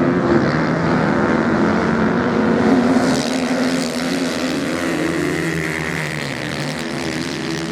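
Motorcycle engines running hard as bikes race on sand: a loud, steady engine drone that eases slightly about three seconds in.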